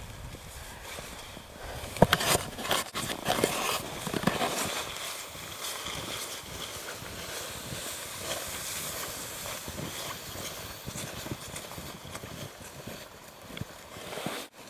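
Footsteps crunching through snow over a steady background hiss, with a burst of louder knocks and rubbing about two to four seconds in.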